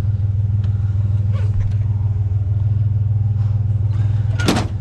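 Vehicle engine running with a steady low rumble, as heard while driving. A brief sharp noise cuts in near the end.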